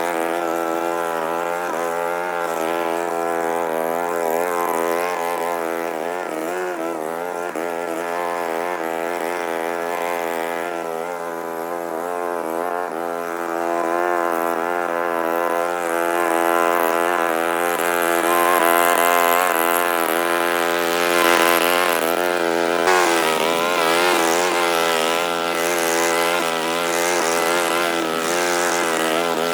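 Small gasoline lawn mower engine running steadily while cutting grass, its pitch wavering slightly with the load.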